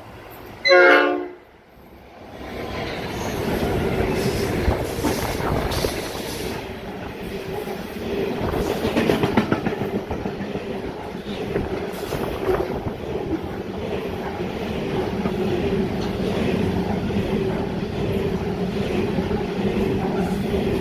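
Freight train's horn sounds once, briefly, about a second in. The train then passes close by with a steady rumble and clickety-clack of wagon wheels on the rails as a long string of covered hopper wagons goes past.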